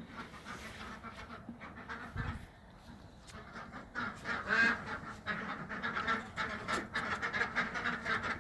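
A flock of ducks quacking together inside their house, the din growing louder and busier about halfway through.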